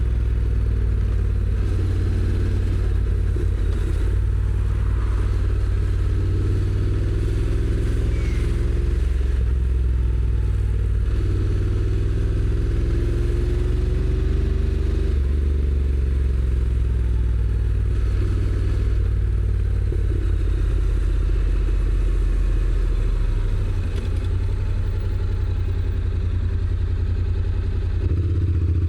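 Honda NC750X's parallel-twin engine running while the motorcycle rides along, with a stock exhaust. The engine note shifts in steps about halfway through and twice more near the end.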